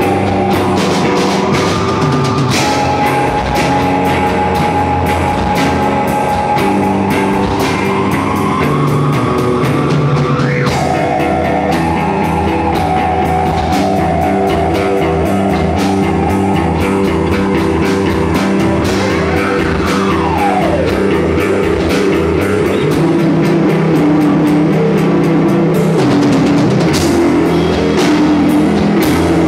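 Rock music with drum kit and guitar, loud and continuous, with a lead line that slides up in pitch about ten seconds in and slides down again around twenty seconds.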